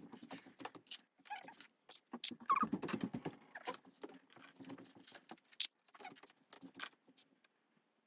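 Metal dishes and utensils being handled and set down, a run of irregular clinks and clicks that stops near the end.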